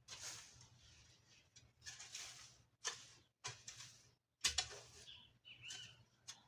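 Irregular bursts of rustling and scraping, typical of weeds being cleared by hand or hoe, with a bird giving short calls near the end.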